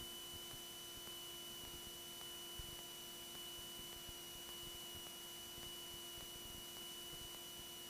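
Faint steady electrical hiss with a thin constant hum and a high whine, the noise floor of the recorded cockpit audio feed, with a small tick about two and a half seconds in.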